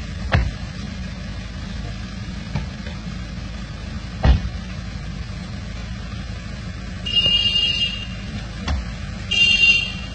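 SUV engine idling with a steady low rumble, with a few knocks as a person is helped in through the open door, the loudest about four seconds in. Near the end come two short high buzzes, about two seconds apart.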